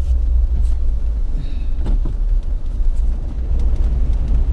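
Jeep driving on snowy, icy town streets: a steady low rumble of engine and tyres, with a brief faint high squeak about one and a half seconds in.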